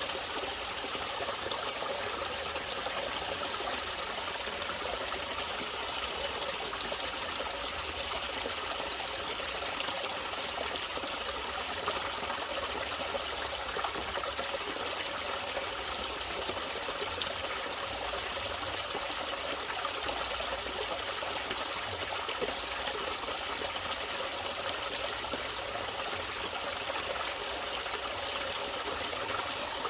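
Running water in a natural stream, trickling and splashing steadily.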